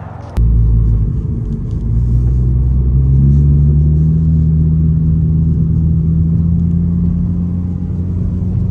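A car's engine and exhaust, loud and low, cutting in abruptly. About two seconds in, the pitch climbs as the car accelerates, then it holds steady.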